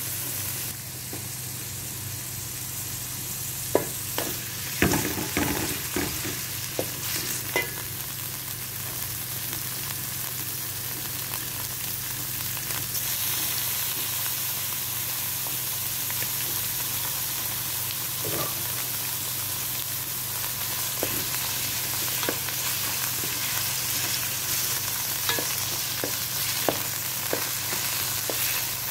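Diced vegetables and chicken frying in oil in a metal pan, a steady sizzle. A wooden spatula stirs through them, with a cluster of knocks and clatters about four to eight seconds in and more taps against the pan later on.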